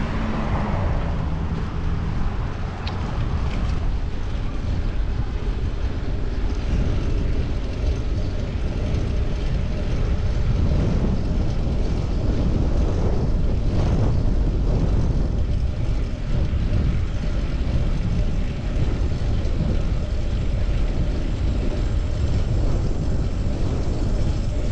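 Steady low rumble of wind on the microphone mixed with road traffic, heard from a bicycle on the move, with a brief swell about fourteen seconds in.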